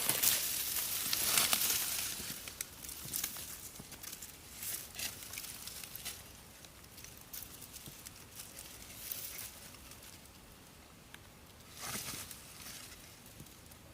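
Rustling and crinkling, loudest over the first two seconds, then scattered light rustles and clicks, with another short burst of rustling near the end.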